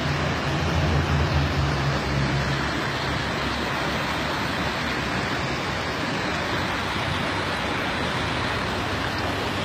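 Steady roar of nearby highway traffic. A low drone sits under it for the first two or three seconds and then fades away.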